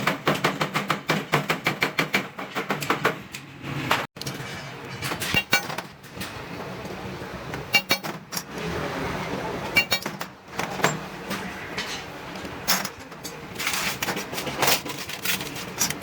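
Hammer striking stainless steel sheet metal: a quick run of strikes at about four or five a second, then scattered, ringing metallic clinks.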